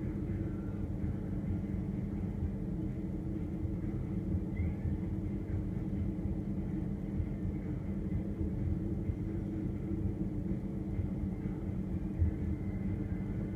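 Steady hum of a refrigerator running, heard from inside the fridge: a low rumble with several steady tones that doesn't change.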